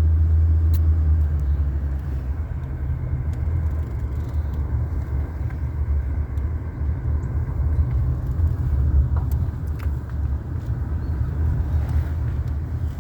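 Car moving at low speed, heard from inside the cabin: a steady low rumble of engine and road noise.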